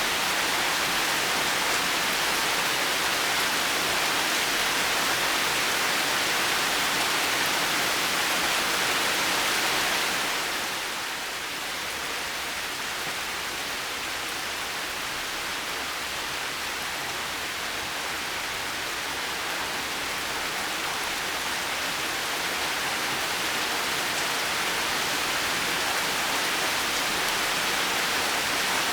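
Steady heavy rain falling, an even hiss with no thunder. It softens slightly about ten seconds in, then slowly builds back up.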